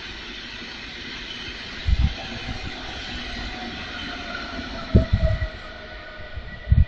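A train passing on the rails with a steady rush and a faint whine. Low knocks come in quick pairs and groups about 2 s, 5 s and near the end, as wheelsets cross rail joints.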